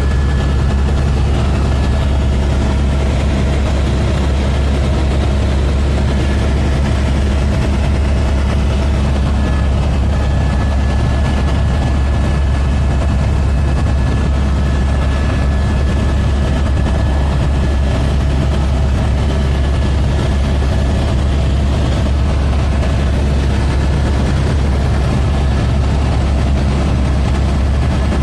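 Helicopter running steadily: a constant loud low drone with a faint steady high whine, unchanging throughout.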